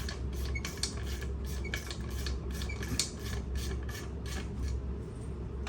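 Repeated rasping strokes of hand-tool work on metal parts, about four a second, over a steady low hum.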